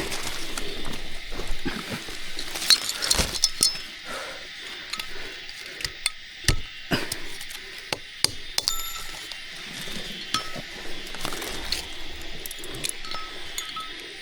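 Irregular clinks and sharp knocks of hard objects being handled, densest about three seconds in and again around six to seven seconds.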